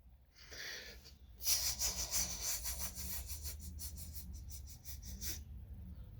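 A man hissing through his teeth to imitate a rattlesnake: a short hiss, then a longer fluttering hiss of about four seconds.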